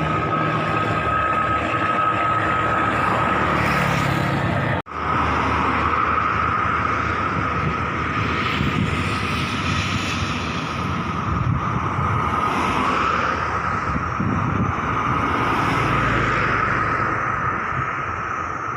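Turbine aircraft engine running with a steady high whine over a broad rush of noise, broken by a sudden momentary cut in the sound about five seconds in.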